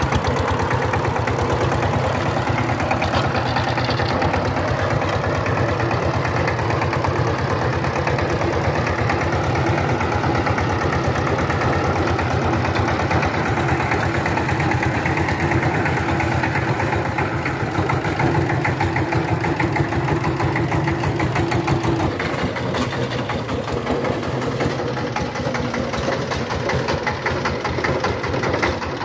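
Power tiller's diesel engine running steadily, with a rapid, even knocking beat.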